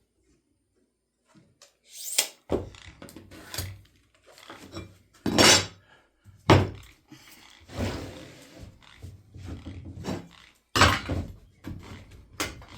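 Irregular knocks, scrapes and clatter of wooden pieces and tools being handled on a workbench, beginning about two seconds in, with several louder thunks.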